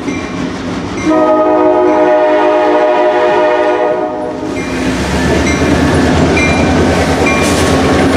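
Diesel locomotive sounding a long chord blast on its horn while approaching a grade crossing, then passing close by with engine rumble and wheel noise from about four and a half seconds in. A crossing bell dings faintly throughout.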